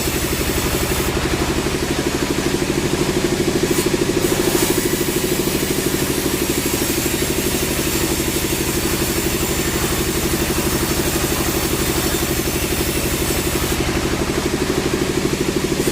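Sawmill machinery's engine running steadily at an even speed, with a rapid regular pulsing.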